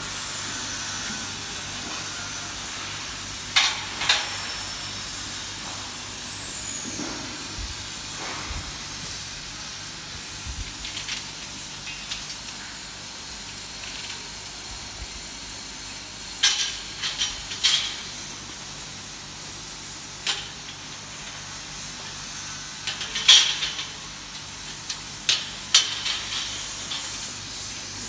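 Steady hiss of manual welding on a solar collector's header and riser tubes, over a faint low hum, broken now and then by sharp clicks and knocks of metal.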